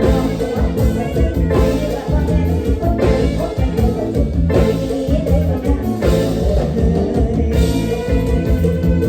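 Live Isan band music in lam toei style, with electric bass and drum kit keeping a steady dance beat and singing over it.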